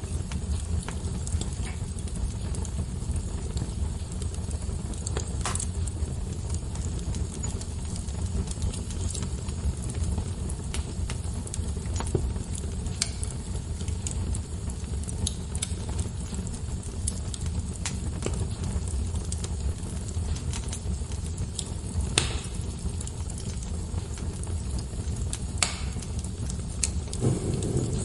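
Wood fire crackling: a steady low rumble of flames under a constant patter of small crackles, with a few sharper pops from the burning logs.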